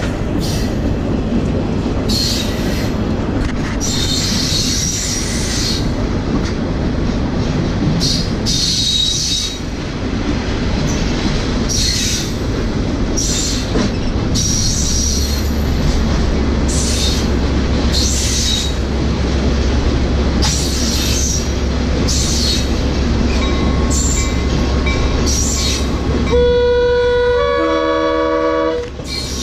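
Train in motion heard from a riding caboose: a steady rumble of wheels on the rails, with short high squeals from the wheels every second or two. Near the end a train horn sounds for about two and a half seconds.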